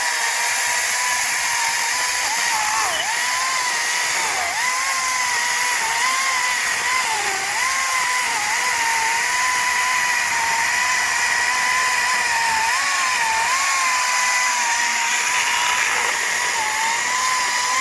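ECHO DCS-2500T 56-volt battery electric chainsaw running at full speed while cutting through a small tree. The motor gives a steady whine whose pitch sags briefly several times as the chain bites into the wood under load.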